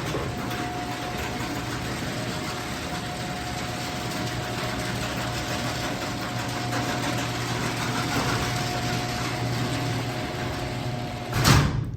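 Genie IntelliCode screw-drive garage door opener running steadily as it closes the door, a motor hum with a steady whine over the grinding of the screw drive, a little bit loud. It stops near the end with a thump as the door comes down.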